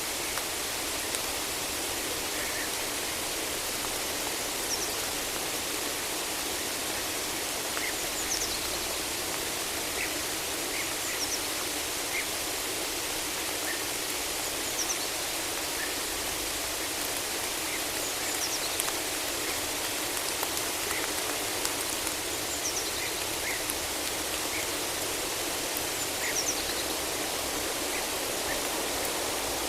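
Steady rain hissing in a forest, with short high bird chirps every few seconds over it.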